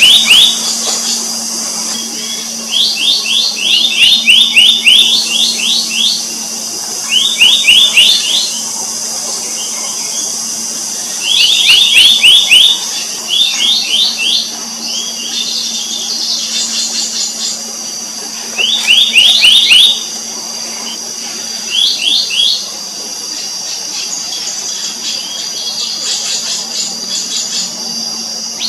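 Black-naped monarch calling: short, rapid series of high, ringing notes, repeated every couple of seconds. A steady high hiss runs underneath.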